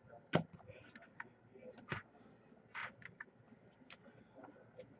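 Faint, sparse clicks and taps from a computer keyboard, a few sharp keystrokes about a second apart with a brief scratchier sound near the middle.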